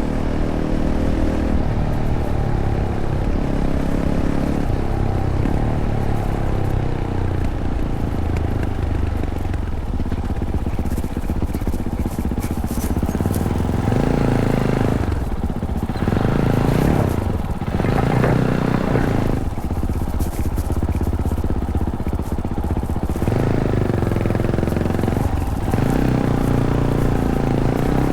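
Fantic Caballero 500's single-cylinder engine through its stock Arrow exhaust, ridden off-road: the engine note changes with the throttle, with several strong surges of revs through the middle and again near the end.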